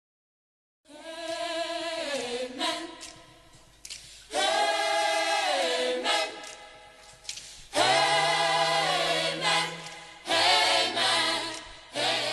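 A choir singing a cappella in several long phrases with sliding pitches, starting about a second in; a low sustained note joins under the voices about eight seconds in.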